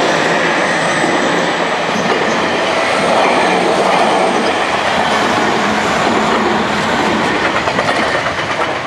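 Tokyu 5050 series electric commuter train passing over a level crossing at low speed: loud, steady running noise with wheel clatter, and a quick run of clacks near the end.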